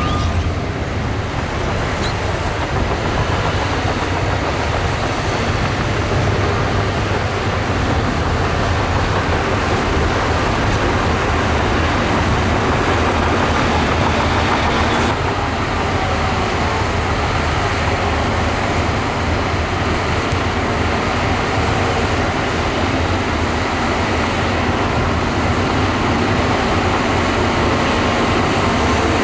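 Bulldozer's diesel engine running steadily with a deep rumble as it works sand. The tone shifts slightly about halfway through.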